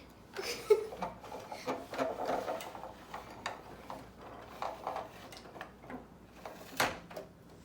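Toy food truck playset being handled and turned around on a surface: rubbing and scraping with scattered clicks and a couple of sharper knocks.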